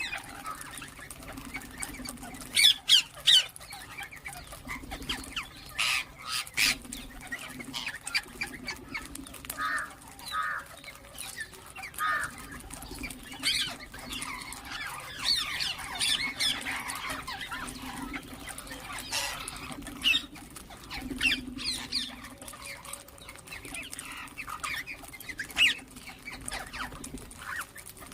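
Ring-necked parakeets calling in short, sharp screeches and chirps scattered through the stretch, loudest a few seconds in, over a faint low hum.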